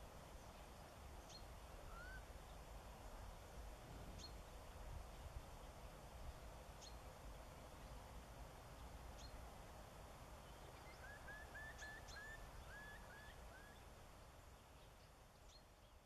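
Faint distant bird calls over low steady ambient noise: scattered short high ticks, one short rising call about two seconds in, and a run of about eight short rising call notes from about eleven seconds in.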